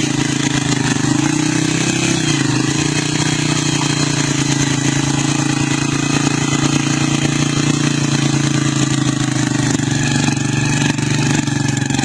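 Motorcycle engine running steadily at a low, even pitch, briefly shifting in pitch about two seconds in.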